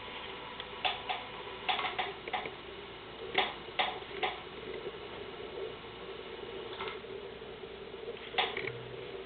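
Electric motor driven by a Sabertooth motor controller, running with a steady whine that grows stronger about halfway through as the controller steps its speed, over a scatter of irregular sharp clicks.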